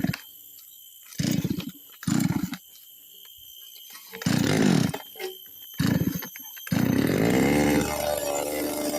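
A small two-stroke engine, likely a chainsaw, catching briefly four times in short bursts, then revving up about seven seconds in and running steadily.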